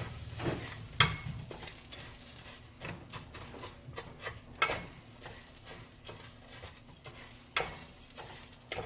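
Uncooked rice and chopped onion sizzling faintly in hot oil while being stirred, the utensil scraping and knocking against the pan now and then, loudest about a second in. The rice is being browned in the oil before the liquid goes in.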